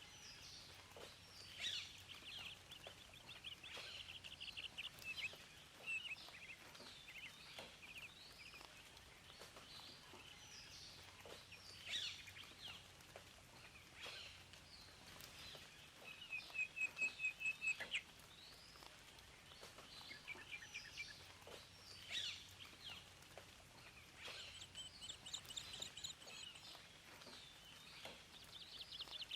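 Several songbirds singing and calling at once: trills, whistled notes and quick falling chirps, with a run of about eight loud repeated notes near the middle, over a faint steady hiss.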